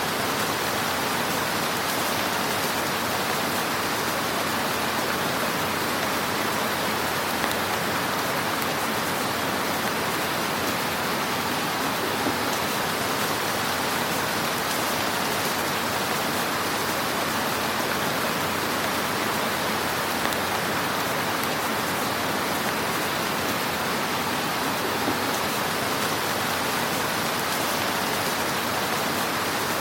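Wood fire in a fireplace crackling with a steady hiss, with a few slightly louder pops now and then.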